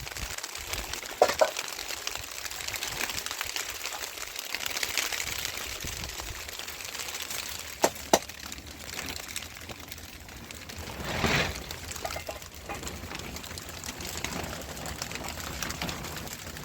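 Steady rain falling, a fine continuous hiss of drops, with a few sharp knocks and a brief louder rush about eleven seconds in.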